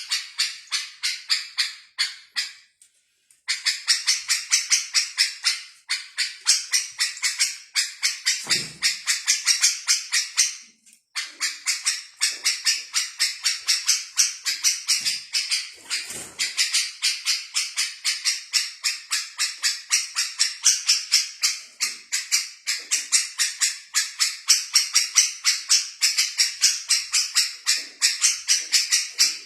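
A small songbird chirping in a fast, unbroken run of short, high chirps, several a second, that stops briefly twice.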